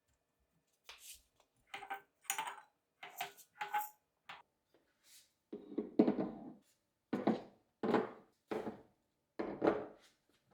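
Kitchen things being handled and set down on a shelf: light clicks and clinks, a few with a short ring, then from about halfway a run of heavier knocks roughly once a second.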